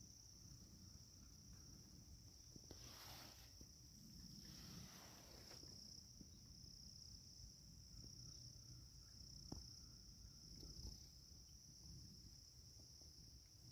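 Faint, steady high-pitched trilling of insects in the woods, with two brief rustles a few seconds in.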